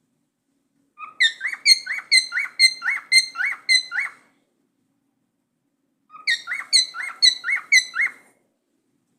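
Cockatiel chirping: two bouts of quick repeated short rising notes, about three a second, with a pause of about two seconds between them.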